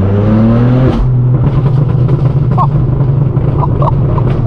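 Straight-piped BMW M4 F82's twin-turbo inline-six exhaust, loud, revving up through a gear. The pitch drops at the upshift about a second in, then the engine holds a steady drone under load. A few short high chirps sound near the end.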